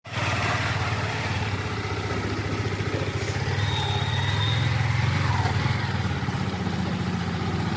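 Motorcycle engine running steadily, with a brief high steady tone about halfway through.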